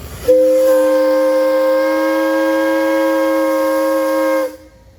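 Steam whistle blown in one long, steady blast of about four seconds, sounding a chord of two main notes that cuts off sharply.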